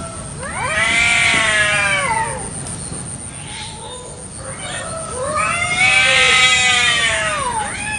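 Domestic cats caterwauling in a territorial standoff: two long, drawn-out yowls, each rising and then falling in pitch, the first about half a second in and a longer one from about halfway to near the end.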